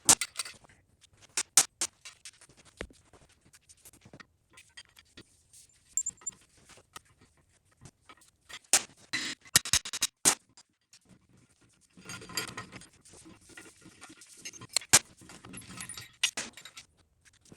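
Metal clinking and rattling with scattered sharp knocks, loudest in a cluster about nine to ten seconds in, from a cam bearing removal bar being worked in a small-block V8 engine block.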